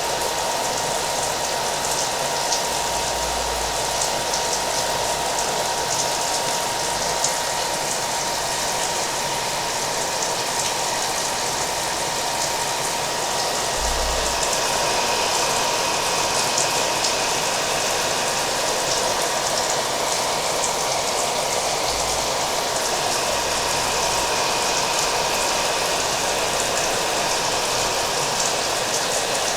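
Hair dryer running steadily, with a constant whine under its blowing, mixed with the sound of rain falling.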